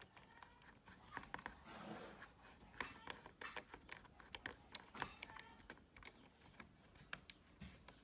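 Faint, irregular light clicks and taps, several a second at times.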